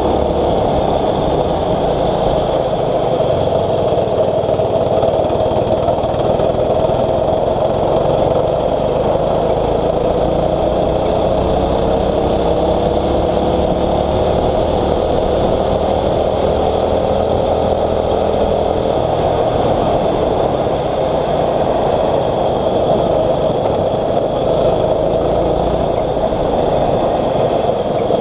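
A 6.5 hp single-cylinder four-stroke kart engine running steadily under way. Its pitch rises and falls slowly through the middle stretch.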